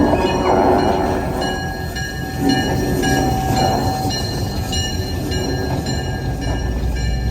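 Passenger train running on the rails: a steady rumble and rattle from the moving cars, with thin high-pitched squeals coming and going.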